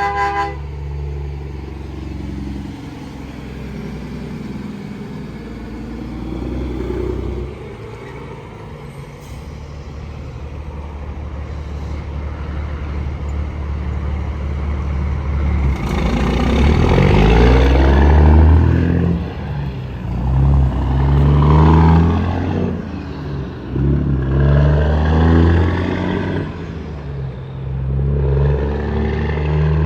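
Interstate traffic going by, then from about halfway a heavy diesel truck engine pulling hard through several gears. Its note climbs and drops back at each shift, over the hiss of passing tyres. A horn's blast ends right at the start.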